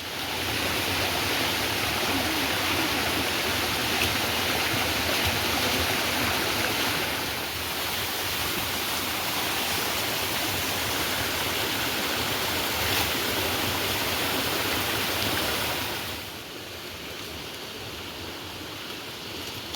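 Steady rushing water, a dense even hiss with no rhythm. It drops to a noticeably lower level about sixteen seconds in.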